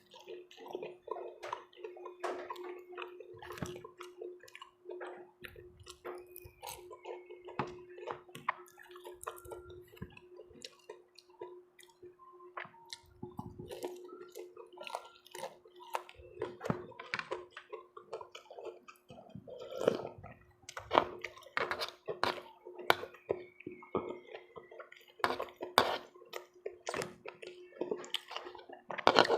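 Close-miked eating sounds: wet chewing and sipping of pork sinigang soup with vegetables, with many small clicks of a spoon or utensils, over a faint steady hum.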